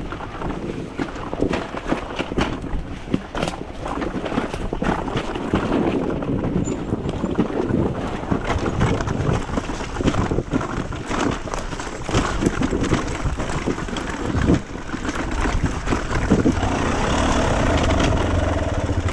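Off-road dirt bike riding over rough trail, its engine running on uneven throttle, with frequent knocks and rattles from the bumps. Wind noise on the microphone swells near the end.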